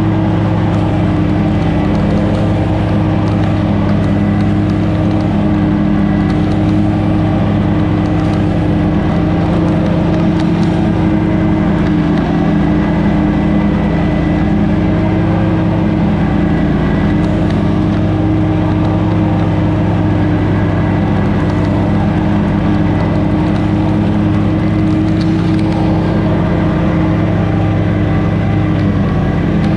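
Small lawn-equipment engine running steadily at a constant speed, with no change in pitch.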